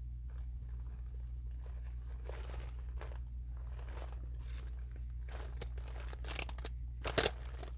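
Crinkling and rustling of flexible air duct and its insulation wrap being handled, in irregular strokes, with a louder crackle about seven seconds in, over a steady low hum.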